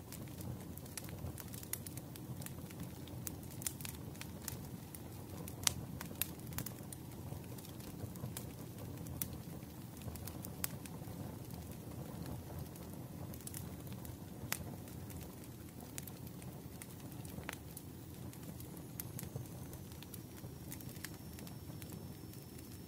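Wood fire crackling, with scattered sharp pops and snaps over a steady low rumble of the flames.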